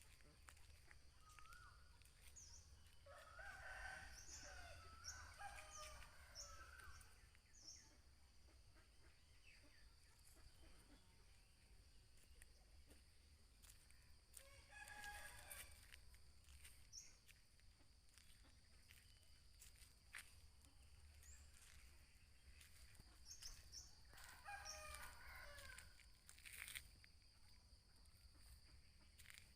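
Roosters crowing faintly, three bouts spaced about ten seconds apart, with short high chirps of small birds and a steady high-pitched hum underneath.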